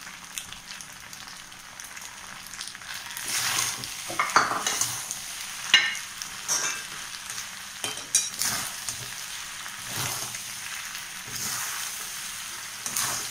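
Pasta and noodles sizzling as they are stir-fried in a metal kadhai, with a metal spatula scraping and knocking against the pan at irregular strokes every second or two.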